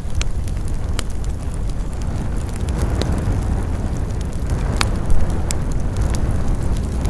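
Wood fire burning: a steady low rumble of flames with scattered sharp crackles and pops, a few louder ones.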